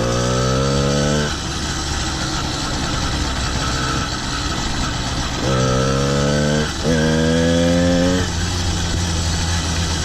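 Motorized bicycle's 100cc two-stroke kit engine running and revving up under throttle three times, each a rising note about a second long that then drops back to a lower running sound.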